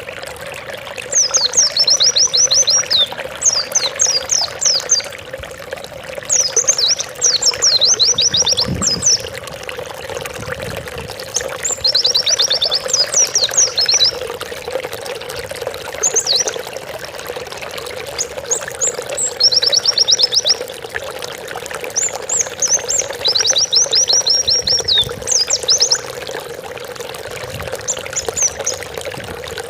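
White-eye (pleci) singing: bursts of rapid, high trilled notes, each a second or two long, repeated every couple of seconds over a steady low background hum.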